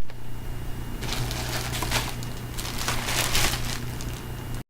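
Clothes and their plastic packaging being handled, crinkling and rustling on and off, over a steady low hum. The sound cuts out for a moment near the end.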